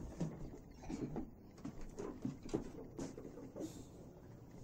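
Soft, irregular bumps, taps and rustling from a toddler clambering onto furniture.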